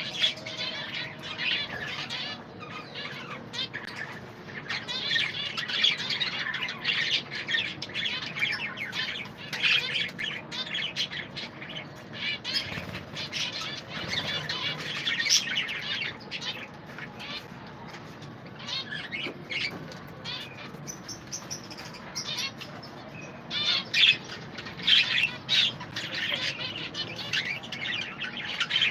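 A colony of budgerigars chirping and chattering together, a dense unbroken twittering of many overlapping calls, with a louder spell of calls about twenty-four seconds in.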